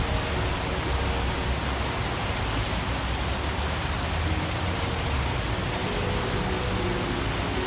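Forest stream water running, a steady, even rushing hiss.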